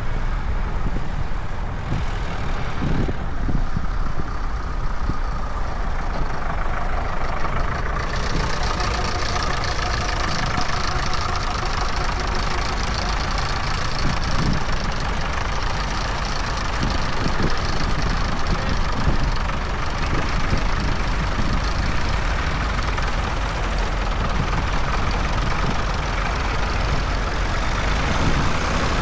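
Tractor engines running steadily with a low rumble. About a third of the way through, a brighter hiss comes in on top and stays.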